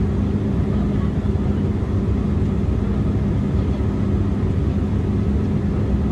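Steady cabin noise of an Embraer E175 jet airliner in flight: the drone of its engines and airflow, with a steady low hum running through it.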